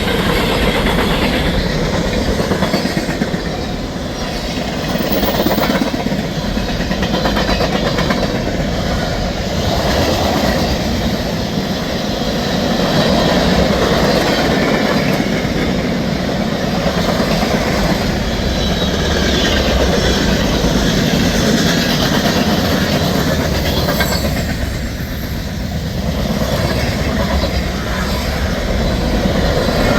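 Freight train cars rolling past close by: a steady rumble with wheels clacking over rail joints and faint high wheel squeal as they take the curve.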